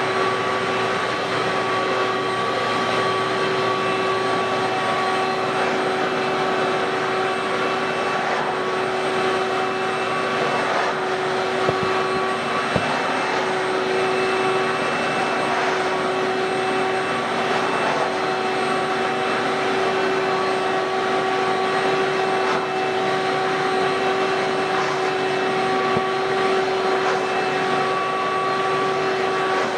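Ridgid WD1450 14-gallon wet/dry vac running steadily, a constant whining motor noise with a few steady tones, as its carpet nozzle is pulled over carpet.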